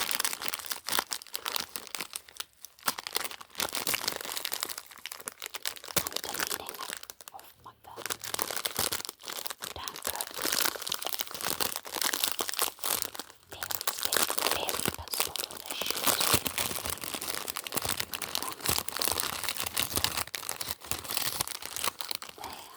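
Packaging being crinkled and torn open by hand: a continuous crackling rustle with many sharp crackles, broken by brief pauses at about 8 and 13 seconds.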